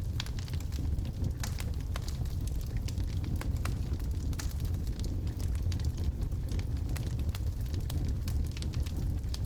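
Wood logs burning in a fireplace: a steady low rumble of the flames with frequent sharp, irregular crackles and pops from the wood.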